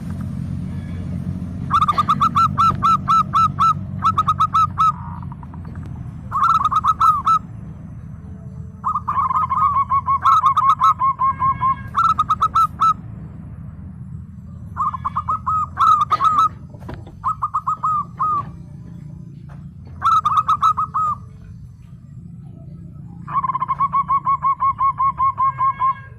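Zebra dove (perkutut) song: about nine phrases of rapid, staccato cooing notes, each one to three seconds long, over a steady low hum.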